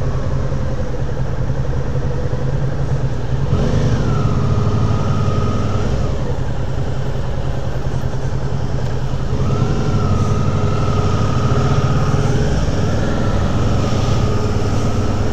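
Motorcycle engine running while riding, picking up revs about four seconds in and again around ten seconds in, each time settling into a steady, even tone.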